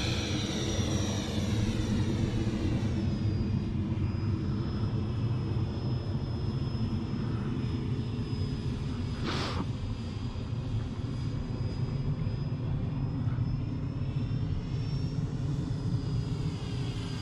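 A 70mm electric ducted fan in a radio-controlled foam jet running in flight, a steady high whine over a rumble, its pitch shifting as the model passes near the start and again near the end. A brief rush of noise comes about nine seconds in.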